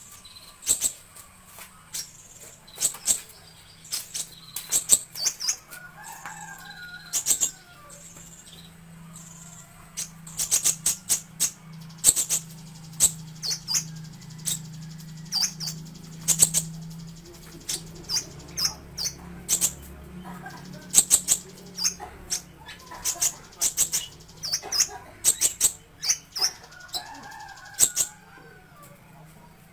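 Kolibri ninja sunbird singing: quick clusters of very high, sharp chirps, repeated every second or two throughout. A steady low hum sits underneath for most of it and fades out near the end.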